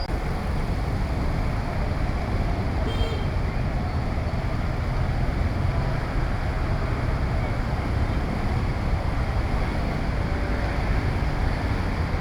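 Steady city street noise in heavy rain: traffic running on wet roads under an even hiss of rain, with a faint brief high tone about three seconds in.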